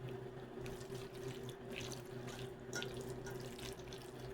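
Spoon stirring cooked macaroni through a wet mix of cheese, egg and heavy cream in a bowl, with faint irregular squelches and scrapes over a steady low electrical hum.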